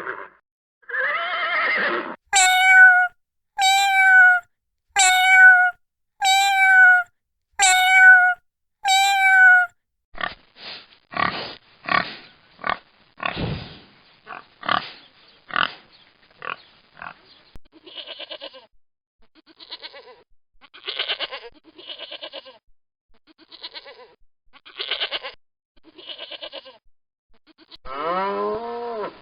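Farm animals calling in a run of separate clips: six evenly spaced, clear pitched calls, then a long series of short, irregular grunting calls.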